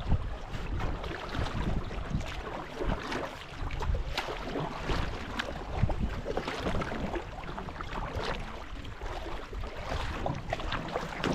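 Canoe on a river: paddle strokes splashing and knocking, with water noise and wind buffeting the microphone.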